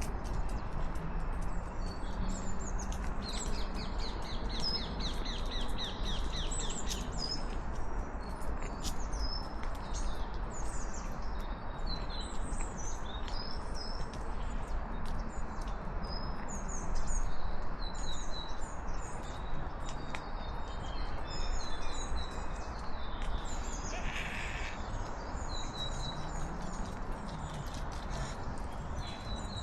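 Songbirds chirping and singing, many short high calls overlapping, with a rapid trill a few seconds in, over a steady background hiss.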